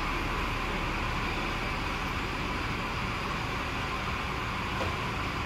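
Steady running noise of a vehicle: an even low rumble with a hiss over it, no changes or distinct events.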